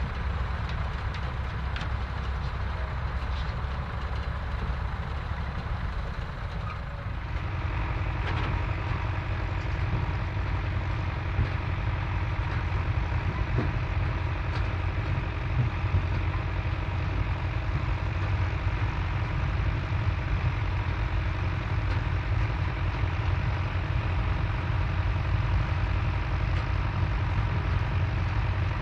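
Vintage farm tractor engines running steadily at work in the field. About seven seconds in, a second steady, higher engine note joins and the sound grows fuller.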